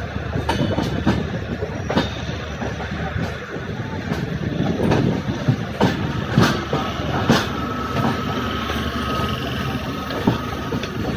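A train running on the rails, heard from on board: a continuous rumble with irregular sharp clacks as the wheels cross rail joints. A faint thin steady whine holds for a few seconds past the middle.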